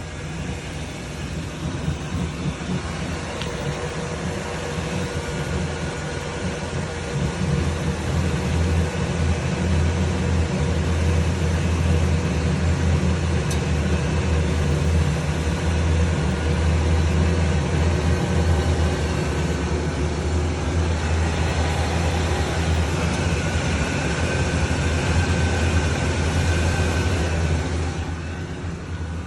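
1996 Oldsmobile 88 making a steady whirring hum over a low rumble. It sounds like a heater blower motor, but the blower is off, and the noise is loudest under the rear of the car and in the trunk. It grows louder about seven seconds in and eases off near the end.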